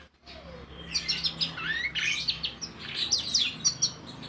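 Thrush song: a rapid run of varied high chirps and slurred whistles in quick succession, starting after a brief gap, over a faint steady low hum.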